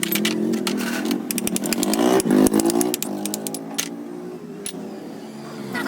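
An engine running, its pitch dipping and rising again about two seconds in, with a run of rapid sharp clicks and knocks in the first three seconds.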